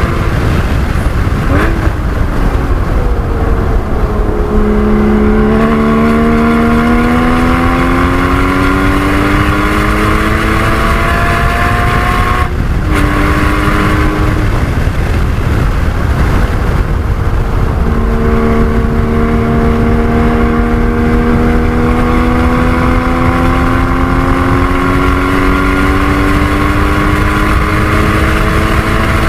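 Porsche 981 GT4's naturally aspirated flat-six pulling hard up through the revs, its note rising steadily. About twelve seconds in it cuts briefly, pulls again, then falls away near fourteen seconds and climbs again in one long rising pull from about seventeen seconds, over heavy road and wind noise.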